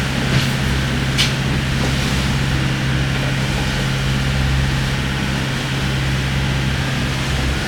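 Tender boat's engine running steadily under way, a low even hum with a steady hiss over it. Two short ticks sound within the first second or so.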